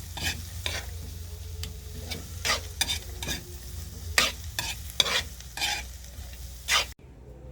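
Food frying in a pan while it is stirred, with irregular scraping strokes about one or two a second over a steady sizzle. The sound cuts off abruptly just before the end.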